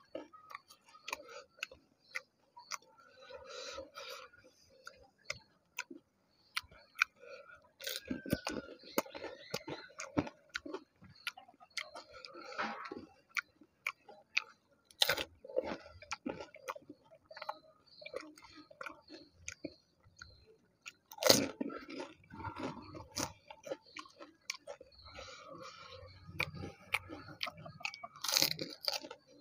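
A man biting into and chewing fuchka (pani puri) one after another, each crisp fried puri shell filled with spiced water and put into the mouth whole. Close crunching as the shells break, then wet chewing; the sharpest crunches come about two-thirds of the way through and near the end.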